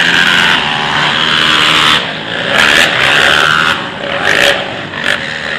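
Several motocross bikes racing, their engines running hard and revving, the sound rising and falling as they pass.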